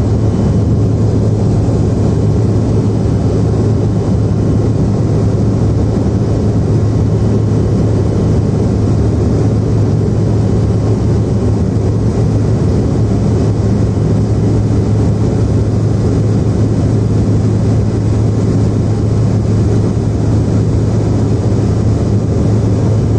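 Steady cabin noise of a Bombardier CRJ-900 airliner, heard from inside the cabin: the drone of its rear-mounted GE CF34 turbofan engines mixed with airflow rush, holding a constant low hum.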